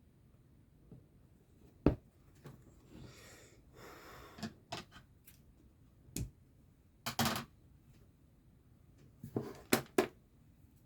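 Handling noises from cross-stitching work: a soft rustle a few seconds in, and several sharp taps and clicks of small items being picked up and set down, a few of them close together near the end.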